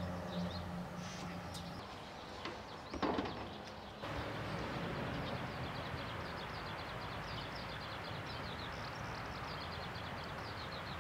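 Rural outdoor ambience with small birds chirping over and over. In the first seconds a low hum fades out, and a short louder noise comes about three seconds in.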